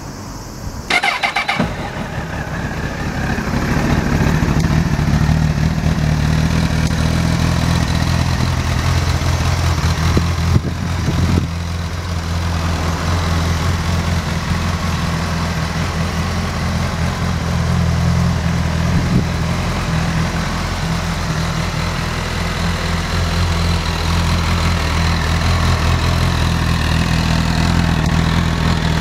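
Honda CBR1000RR (SC57) 998 cc inline-four started on the electric starter about a second in, catching and settling into a steady idle. The idle rises a little a few seconds after starting, with a brief blip and dip about eleven seconds in.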